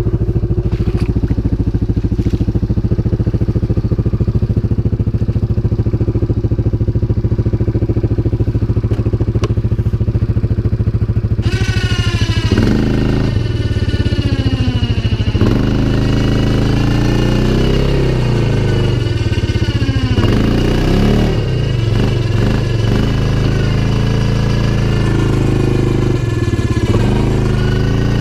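CFMoto 500 ATV's single-cylinder engine running at a steady low speed for about the first eleven seconds. It then revs up and down repeatedly as the throttle is opened and closed.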